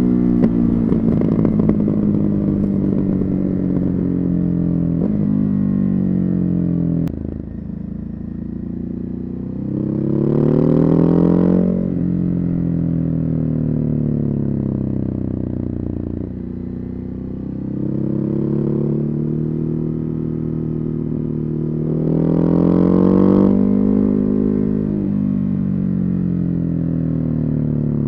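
Ducati Hypermotard 950's Testastretta 11° V-twin with a Termignoni exhaust, its note climbing under throttle and stepping down at gear changes, then falling away as the bike slows. It pulls hardest, and is loudest, about ten seconds in and again a little past twenty seconds.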